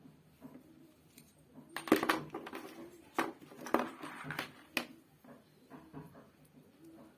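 Small gear motors and their plastic parts being handled, giving a run of knocks and rattles between about two and five seconds in.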